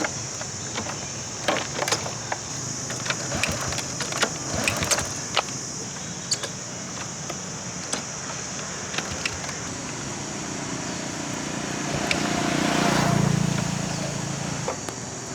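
Honda Dream motorcycle being kick-started without catching. A string of sharp clanks and knocks from the kickstart lever comes in the first few seconds, then a low rumble swells and fades near the end.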